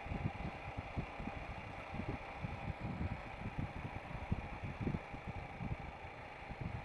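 Riding noise from a Royal Enfield Himalayan motorcycle on the move: irregular wind buffeting on the microphone over steady engine and road noise.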